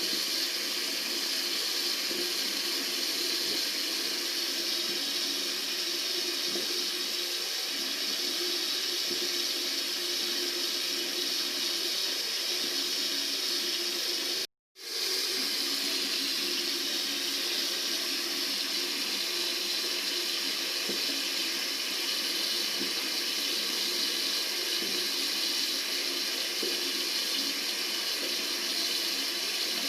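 Tap water running steadily from a faucet, an even continuous hiss. About halfway through it cuts out for a split second and then resumes.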